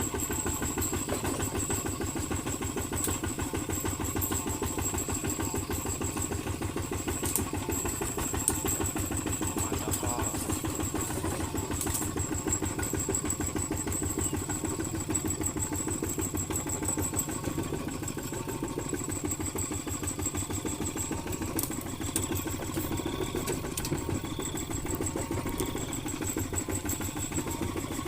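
Kubota ZT155 single-cylinder diesel engine of a walking tractor running steadily, with a rapid, even beat of firing strokes.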